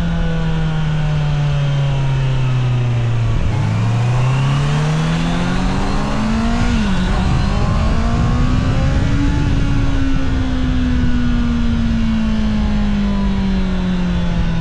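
Honda CBR650R's inline-four engine under way, with wind noise. The engine note falls as it slows, then climbs from about three and a half seconds in, dips briefly for an upshift near seven seconds, peaks around nine seconds, and falls slowly again as the throttle eases off.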